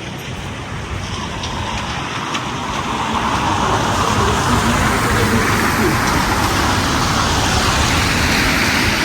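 A road vehicle running close by on a city street, its noise swelling from about three seconds in and then holding steady.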